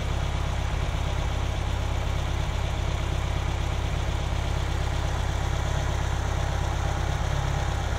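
Ferrari V8 with K-Jetronic mechanical fuel injection idling steadily and evenly, warmed up with the injection system's air valve shut and the idle unaffected.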